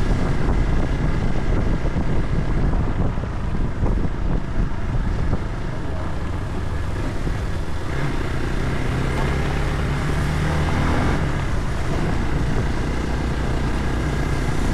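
A motor vehicle running while on the move, a steady low engine drone with road noise; the engine's pitch shifts about eight seconds in.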